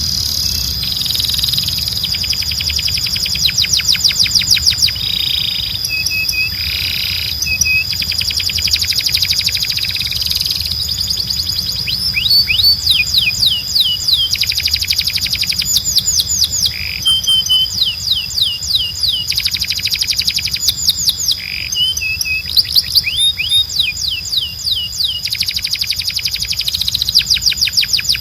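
Canary singing in fast rolled trills of rapidly repeated sweeping notes, phrase after phrase a second or two long with short breaks between them. A steady high tone and a low hum sit beneath the song.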